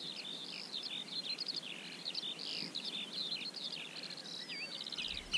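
Many birds calling at once, short chirps and whistles overlapping, with a rapid trill of repeated notes near the end.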